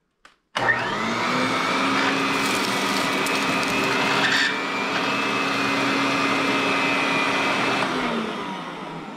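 Aerus Electrolux 1453 vacuum cleaner switched on, its motor whine rising as it spins up, then running steadily, with a brief crackle partway through. Near the end it is switched off and winds down with a falling whine.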